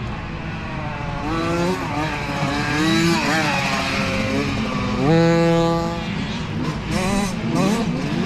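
Mini dirt bike engines revving up and down as several bikes race past, their pitch climbing and dropping with each throttle change and gear shift. About five seconds in, one bike's engine climbs steeply and holds a high, steady pitch for about a second.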